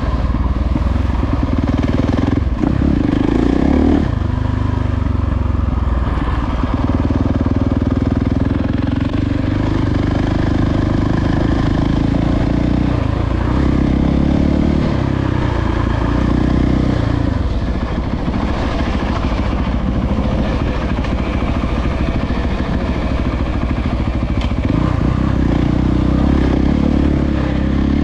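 Dirt bike engine running under changing throttle, its pitch rising and falling repeatedly.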